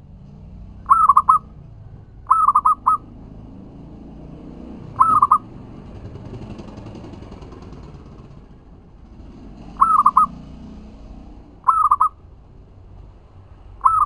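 Zebra dove (perkutut) cooing: six short phrases of quick, rippling notes at much the same pitch, a few seconds apart, over a low background rumble.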